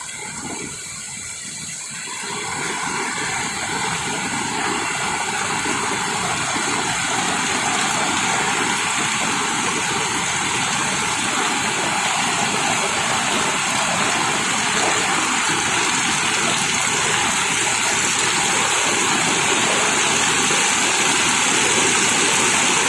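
Heavy rain pouring steadily with a dense rushing hiss of water, growing louder over the first few seconds and then holding steady.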